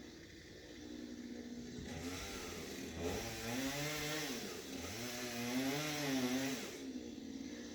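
Chainsaw running at idle, then revved from about two seconds in, its pitch rising and falling several times for about five seconds before it drops back to idle.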